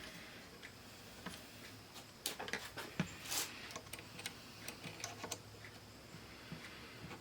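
Scattered small clicks and taps of tools and small metal parts being handled during bench reassembly of an 8-track player mechanism, with a quick flurry of clicks and a brief scrape a little over two seconds in.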